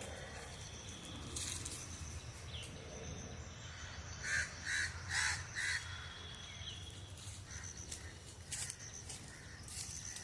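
A bird giving four short, harsh calls in quick succession about four seconds in, over a low steady background.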